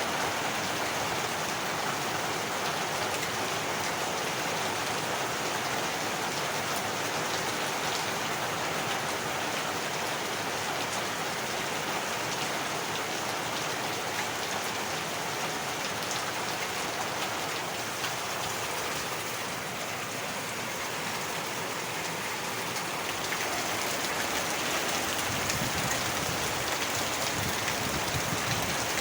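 Heavy rain falling steadily, a dense even hiss with fine drop patter on surfaces; it eases slightly about two-thirds through, then builds again.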